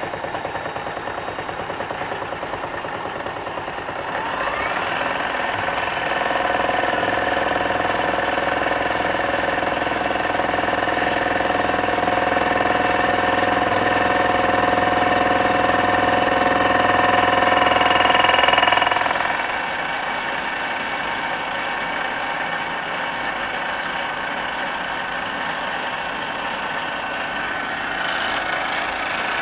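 Milling machine running during gear cutting. About four seconds in, the sound builds into a louder, high whine with several steady tones; just before twenty seconds it drops back to a quieter steady running sound.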